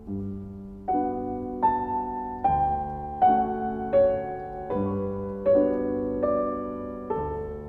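Background music: a slow solo piano piece, with notes and chords struck about every three-quarters of a second and left to ring out.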